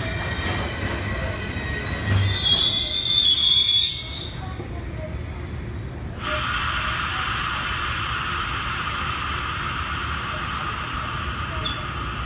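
Freight train of Taki 1200 tank wagons squealing as it slows to a stop, with a loud high-pitched brake and wheel squeal for about two seconds. About six seconds in, a sudden steady hiss of air starts.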